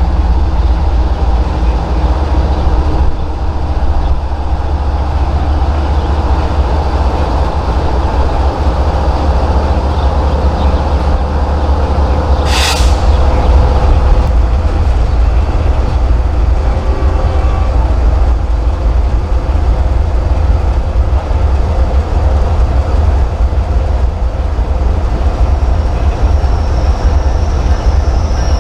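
A train rolling by with a loud, steady, heavy rumble. A single sharp click or clank comes about 12 seconds in, and a high-pitched wheel squeal starts near the end.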